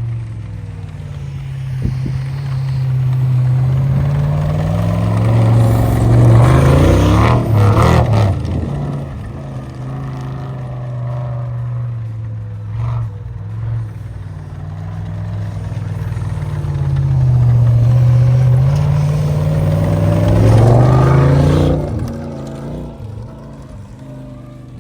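LS V8-swapped snowcat running through snow, its engine note swelling louder and rising and falling in pitch twice, once around six seconds in and again around eighteen seconds in.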